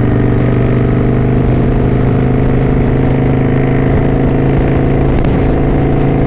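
Kawasaki Vulcan 900 Classic LT's V-twin engine running steadily under way on the road, its note holding nearly constant.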